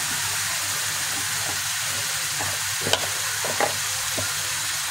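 Onion and tomato masala frying in ghee in a pan, sizzling steadily, with a few short clicks of the silicone spatula against the pan around the middle.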